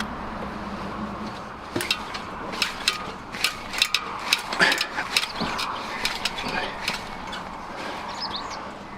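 A run of irregular sharp clicks and knocks from hand work, starting about two seconds in and thinning out near the end.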